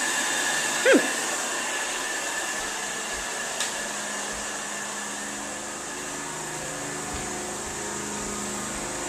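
Carpet-cleaning hot-water extraction machine running with a steady suction whine. About a second in comes one brief, loud squeak that drops sharply in pitch.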